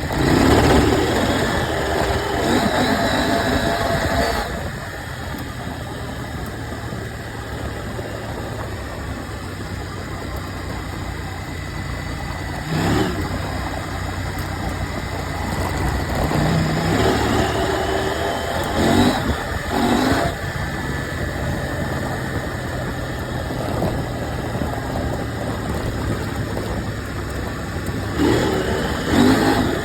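KTM 790 Adventure's parallel-twin engine running on the move, with a few seconds of harder acceleration at the start, short rises in revs about halfway through, and another near the end; steadier, quieter cruising between.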